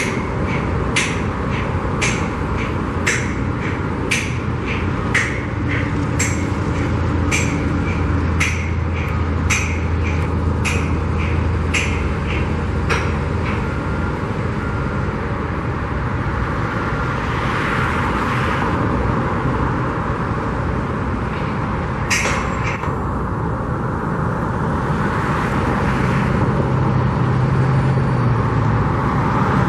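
Sledgehammer blows on the steel connecting pins of a crane's boom sections: sharp metallic clanks with a ringing tail, about one a second for the first half, then a single clank a little after two-thirds of the way through. These are the pins being knocked out to separate the boom. Construction machinery runs steadily underneath.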